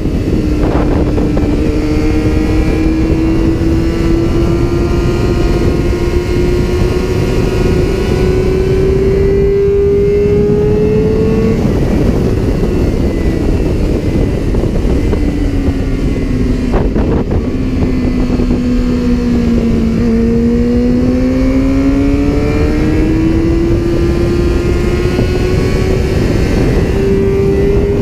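Yamaha R6's inline-four engine at high revs under load, heard from onboard over a steady rush of wind. Its pitch climbs slowly for about ten seconds, falls away around twelve seconds in, dips to its lowest near the middle and rises again toward the end.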